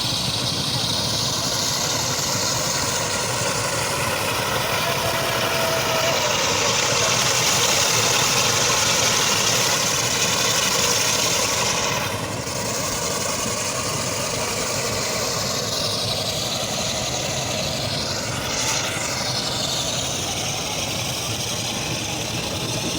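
A heavy vehicle's engine running steadily under a loud hiss; the hiss swells for a few seconds near the middle.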